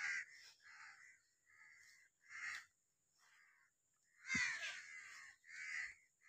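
Faint bird calls, about six short calls spaced irregularly, the loudest about four and a half seconds in.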